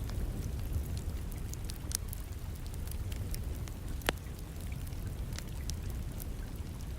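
Wood fire in a fireplace crackling with scattered pops and one sharper snap about four seconds in, over a steady bed of rain.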